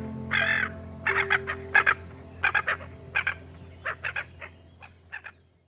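Domestic chickens clucking: a run of short, quick clucks in small groups, growing fainter near the end. Steady held notes of background music sound underneath.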